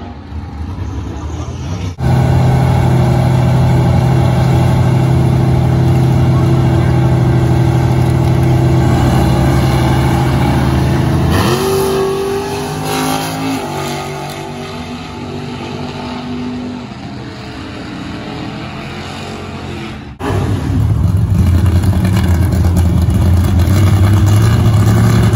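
Drag-race car engines running loud and steady at the strip, with a short rev that rises in pitch about halfway through. The sound jumps abruptly twice where the footage is cut.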